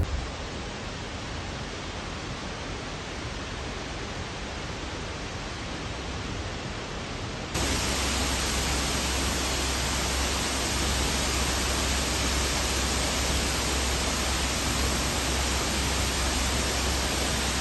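Steady rushing water of a waterfall, an even hiss without rhythm or tone. About seven and a half seconds in it jumps suddenly louder and fuller, with more low rumble.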